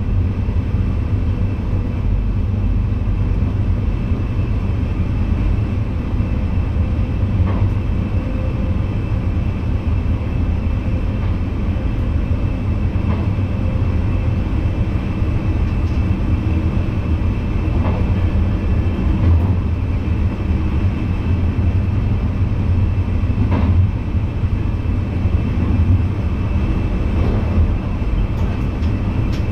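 VIRM double-deck electric train running along the track, heard from the driver's cab: a steady low rumble with a faint steady hum above it. A few faint clicks come now and then.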